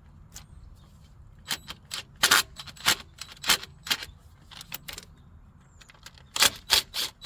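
Irregular sharp metallic clicks and clinks of a socket tool and small nuts as the 10 mm carburetor fasteners are worked loose and taken off.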